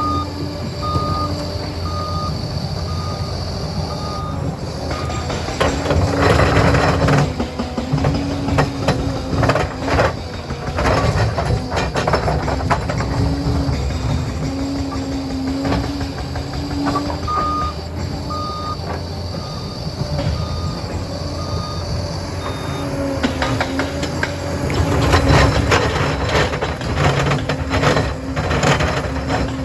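Liebherr 746 crawler dozer's diesel engine running under load, its reversing alarm beeping steadily at the start and again in the second half while it backs up. Two louder spells of clattering knocks come near the quarter mark and toward the end.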